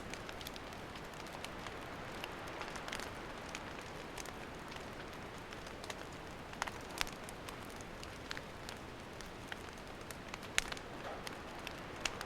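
Wood campfire burning: a steady hiss with irregular sharp crackles and pops, a few of them louder than the rest.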